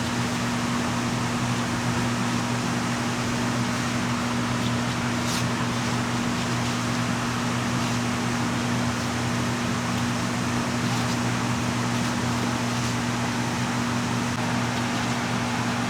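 A motor's steady hum over a constant even hiss, typical of a ventilation fan running, with a faint click about five seconds in.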